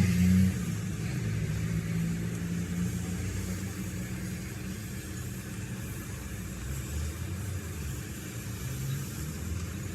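A motor or engine running steadily with a low hum, a little louder for the first half second.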